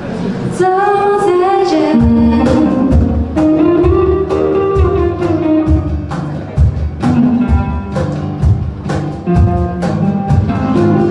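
A live band plays a pop song: a woman sings over guitar, with bass and a drum kit coming in about two seconds in and keeping a steady beat.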